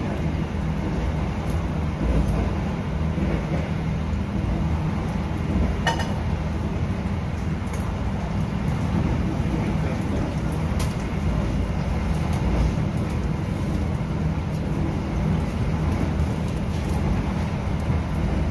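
Steady rumble of a passenger train running at speed, heard from inside the on-board kitchen car, with a couple of sharp clicks.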